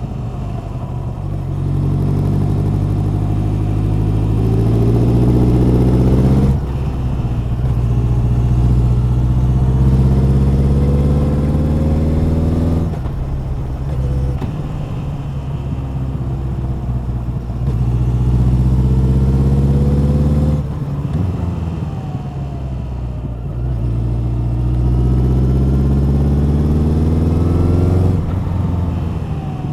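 Honda CB1100's air-cooled inline-four engine and exhaust under way. The revs climb steadily, then drop off sharply as the throttle closes, four times over, about every six to seven seconds.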